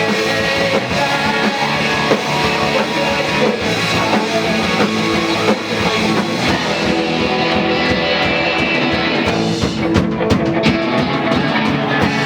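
Live rock band playing: guitars, bass and a drum kit.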